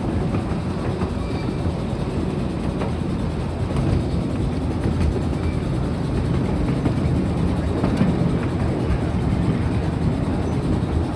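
Steady rumble of a ride-on miniature railroad train rolling along the track, heard from aboard.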